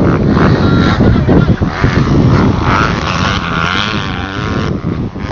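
Motocross bikes racing, engines loud and revving with the pitch wavering up and down; the higher engine note cuts off near the end and the noise drops somewhat.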